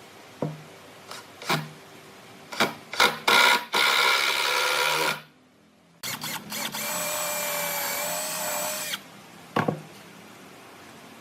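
Handheld electric drill or driver run in short trigger blips, then two longer runs, the second lasting about three seconds with a steady motor whine, and one more short blip near the end.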